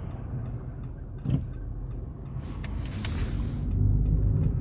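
Car running at low speed, heard from inside the cabin: a steady low rumble with faint, evenly spaced ticking. The road and engine noise swells in the second half as the car pulls into a parking spot.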